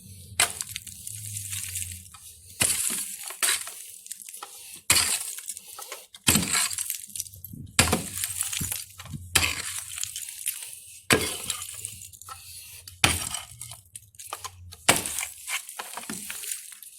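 A metal digging tool striking and scraping into stony, gravelly ground while digging a foundation trench, with a sharp gritty strike about every one and a half to two seconds.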